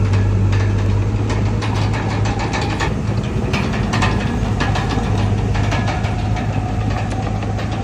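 Komatsu D31PX bulldozer's diesel engine running steadily, with frequent short metallic clicks and clanks over it and a faint whine that rises slightly partway through.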